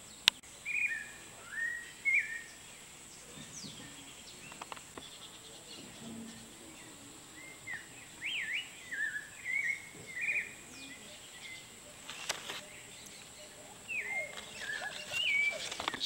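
Rainforest ambience: short whistled bird chirps, some sliding up or down in pitch, coming in scattered bunches over a steady high-pitched hiss. A single sharp click sounds just after the start.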